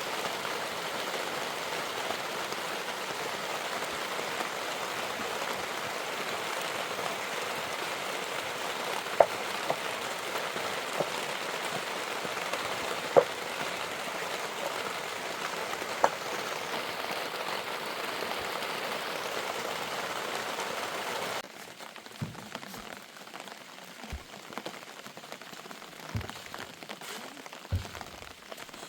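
Steady heavy rain falling, with a few louder single drops striking close by. About 21 seconds in the rain cuts off abruptly, leaving a quieter background with scattered knocks and clicks.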